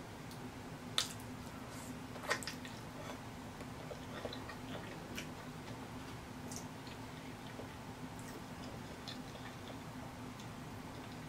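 Close-miked eating sounds of a person chewing hard-boiled egg soaked in seafood-boil sauce: soft, scattered mouth clicks, with two sharper clicks about a second and two seconds in, over a steady low hum.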